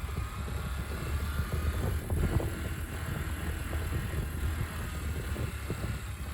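Honda CT125's single-cylinder engine running steadily while the motorcycle is ridden, a continuous low rumble under road and wind noise.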